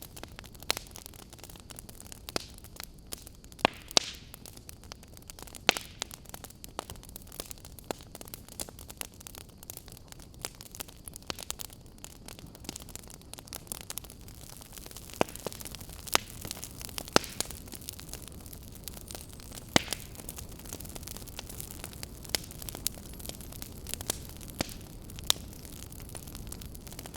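Fireplace fire crackling: irregular sharp pops and snaps, several a second at times, over a steady low hiss and rumble of the flames.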